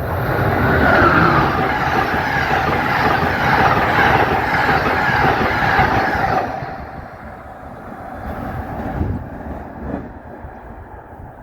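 A train passing at speed, its wheels and cars giving a loud, steady rush that drops off suddenly about six and a half seconds in as the end of the train goes by, then fading to a quieter rumble with a couple of low thumps.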